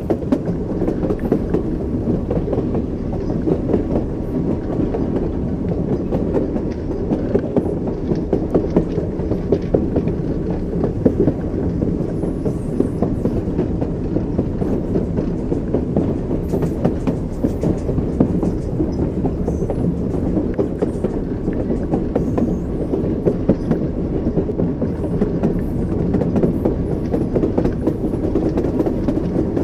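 Moving train's wheels knocking on the rails over a steady, mostly low rumble, with small clicks throughout.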